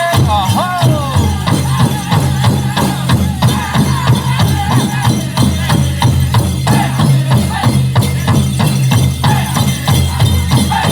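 Powwow drum group singing a chicken dance song in high, falling voices over a big drum struck in a fast, steady beat.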